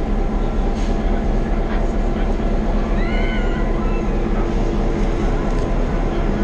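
Passenger train's locomotive engine running steadily close by, a continuous low rumble. About three seconds in there is one short, high squeal that rises and falls.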